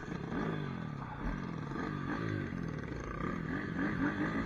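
Pit bike engine running under a rider, its pitch rising and falling again and again as the throttle is opened and eased off.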